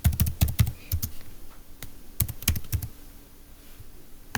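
Computer keyboard keys clicking in quick runs: a burst of about six clicks at the start, a scattered few around two to three seconds in, and a single click near the end.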